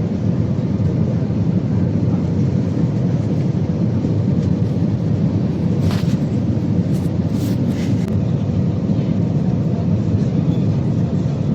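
Steady, loud cabin drone of an Airbus A320 in flight: engine and airflow noise heard from inside the cabin, with a few faint ticks about six to eight seconds in.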